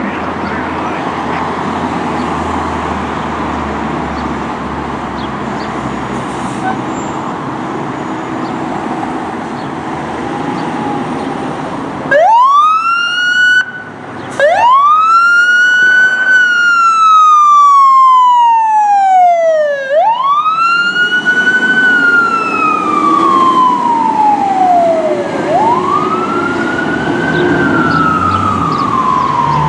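A steady engine and road rumble, then about twelve seconds in a fire engine's siren starts wailing. It cuts out briefly, then runs on. Each wail rises quickly and falls slowly over about five seconds.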